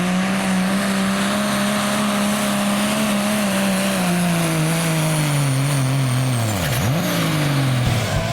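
Turbocharged diesel pulling truck's engine running hard at high revs, then winding down steadily over the last five seconds as it comes off the throttle, with a faint high whistle falling along with it.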